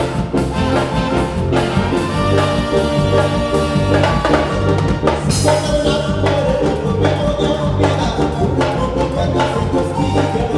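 A Latin dance band playing, with a drum kit keeping a steady beat under bass and melodic instruments.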